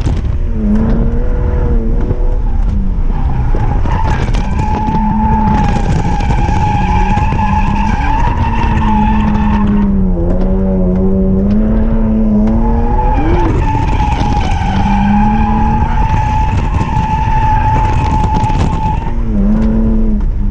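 BMW E46 M3's S54 straight-six revving hard through a drift, its pitch rising and falling with the throttle. Under it the rear tyres squeal in a steady high screech, which breaks off for a few seconds about halfway and stops near the end.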